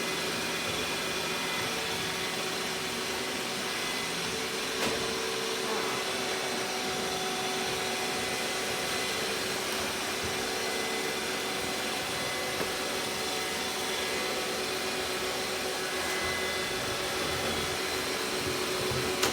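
Robot vacuum cleaner running steadily: an even whirring hiss with faint steady tones.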